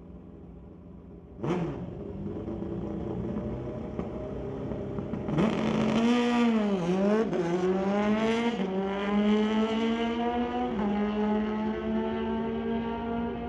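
Drag-racing motorcycle engine: a sharp rev about a second and a half in, then a loud run under full throttle, the pitch climbing and stepping down twice at gear shifts.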